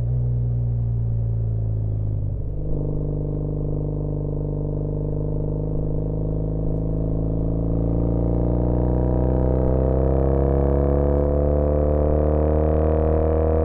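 2013 Triumph Bonneville T100's air-cooled parallel-twin engine, fitted with a British Customs Sleeper Pro exhaust, running under way. Its note changes nearly three seconds in, then rises slowly and steadily as the bike gathers speed in gear.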